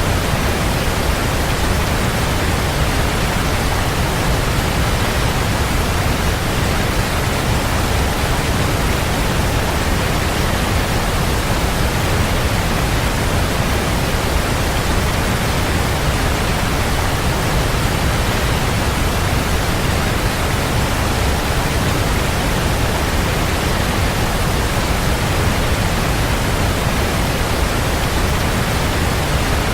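Waterfall: a steady, full rush of falling water, even and unbroken, heaviest in the low end.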